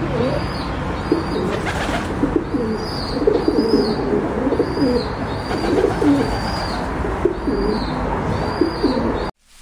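Birds calling: low, wavering calls repeat over and over, with a short high chirp one or two times a second, over a steady hiss. It all cuts off suddenly near the end.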